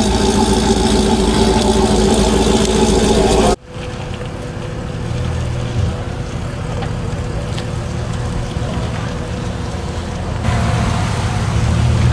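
Vehicle engines running. The first few seconds are loud and steady, then there is an abrupt cut to a quieter steady engine hum, which grows louder again near the end.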